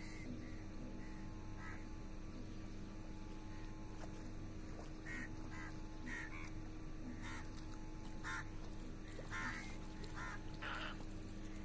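A bird giving short calls again and again at irregular intervals, about nine in all, coming closer together after about five seconds, over a steady low hum.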